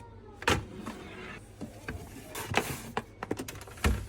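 Handling noises: a string of knocks and clatters, loudest about half a second in and again near the end, with a short rustling stretch in between.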